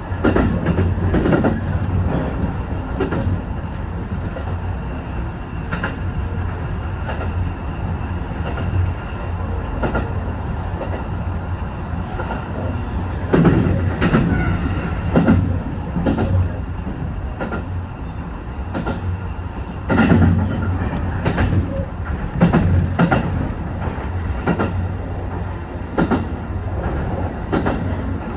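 Train running along the line: a steady low rumble, with the wheels clacking over rail joints in clusters of knocks.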